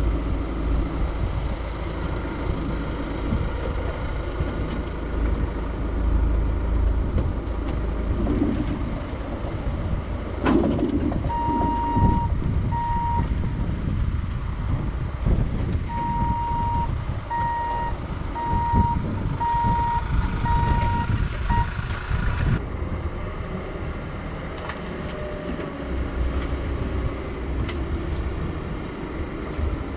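Vehicle backup alarm beeping: two beeps about eleven seconds in, then a run of about six more a few seconds later. Under it, a heavy engine runs with a steady low rumble.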